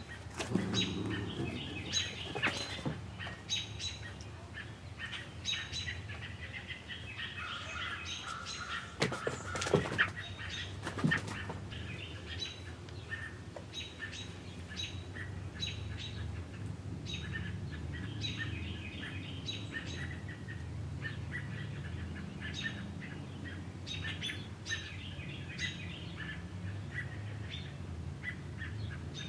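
Small bird chirping over and over in short, high calls. There are brief flurries of wing flapping near the start and around ten seconds in, over a steady low background rumble.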